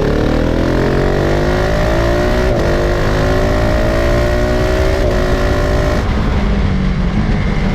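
KTM 690 SMC-R's single-cylinder engine accelerating hard, rising in pitch through two quick upshifts about two and a half and five seconds in. About six seconds in the throttle closes and the engine drops to a low off-throttle hum.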